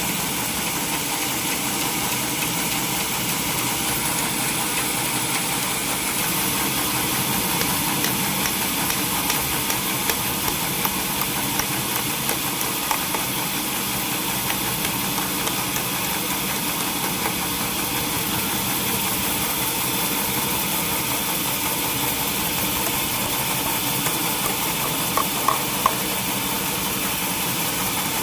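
Sawmill machinery running with a steady, unchanging drone. A few light ticks come partway through, and three sharp clicks come close together near the end.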